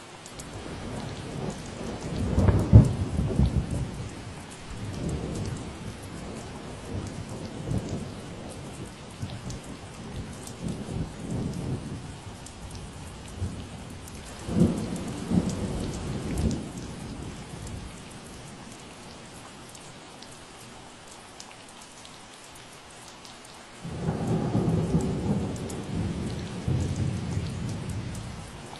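Steady rain falling, with low rolling rumbles of thunder swelling up three times, the loudest a few seconds in and another starting suddenly near the end.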